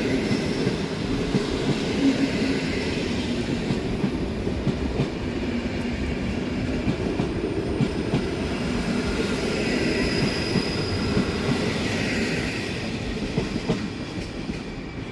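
Train rolling past on the station tracks: a steady rumble of wheels on rail with repeated clicking over the rail joints and faint high wheel squeal, easing off near the end.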